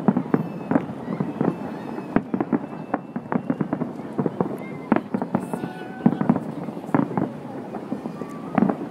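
Aerial fireworks shells bursting in quick, irregular succession: a dense run of sharp bangs and crackles, several a second.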